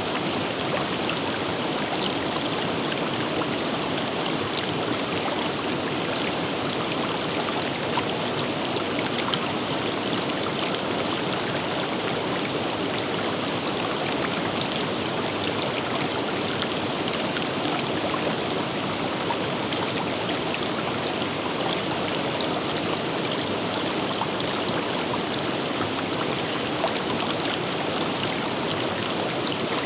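River water running steadily over rocks, an even rushing flow with small splashes and droplet ticks scattered through it.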